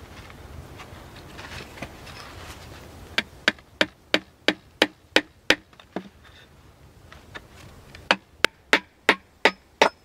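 Sharp, evenly paced strikes of a hand tool on wood, about three a second: a run of about eight a few seconds in, a pause, then another run starting near the end.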